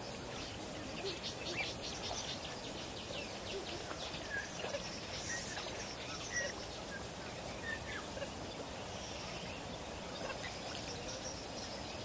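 Birds calling: scattered short chirps and a quick rattling series of notes a second or two in, over a steady outdoor hiss.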